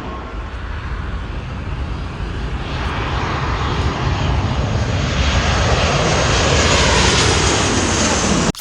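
Jet airliner's engine noise growing steadily louder as the plane approaches, then cut off abruptly near the end.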